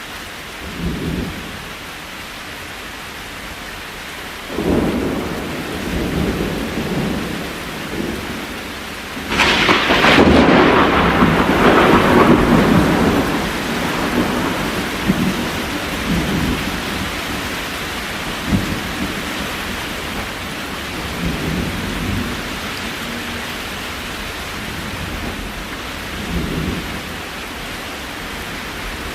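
Steady rain with rolls of thunder: low rumbles come and go, and the loudest thunderclap and rumble breaks about ten seconds in and dies away over a few seconds.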